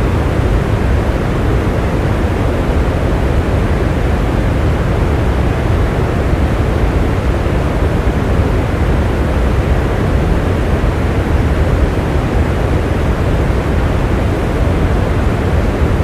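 Steady heavy rain: a dense, even rush of noise with a deep low rumble underneath, unchanging throughout.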